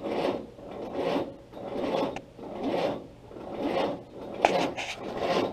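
Willys Jeep's L-134 four-cylinder flathead engine being cranked by the starter without firing. It turns over slowly in an even, labouring rhythm, pretty sluggish, the sign of a weak crank on an engine that has long sat unused.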